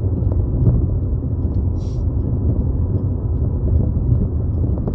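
Steady low rumble of a car driving at highway speed, heard from inside the cabin: engine and road noise, with a brief faint hiss about two seconds in.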